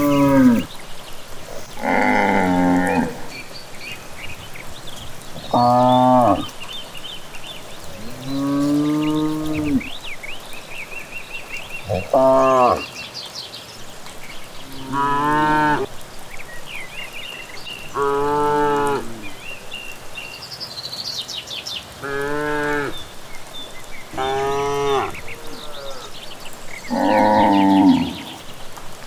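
Cattle mooing over and over, about ten drawn-out calls spaced a couple of seconds apart, with birds chirping faintly behind them.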